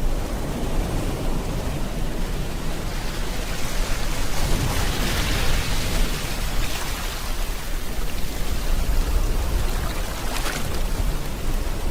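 Steady rain mixed with ocean surf, a wave washing in with a swell of hiss about halfway through.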